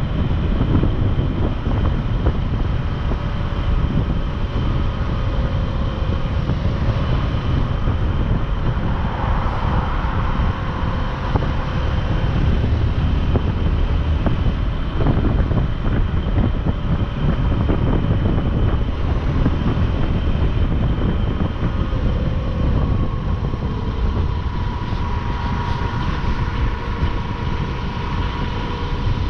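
Wind rushing over the microphone of a moving motorcycle, with the motorcycle's engine running underneath, its faint whine drifting slowly in pitch.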